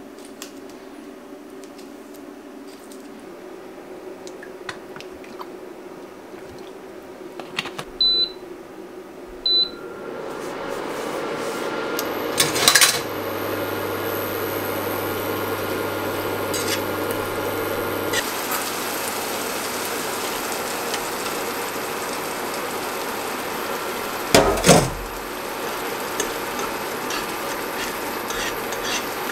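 A knife clicks as it cuts tomatoes over a wooden board. About eight seconds in, an induction hob's controls beep twice. Then onions and tomatoes sizzle steadily in a frying pan on the induction hob, with a low hum from the hob for a while and two loud clatters of pan and utensil.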